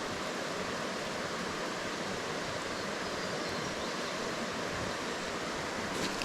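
A river rushing over rocks: a steady, even wash of water noise.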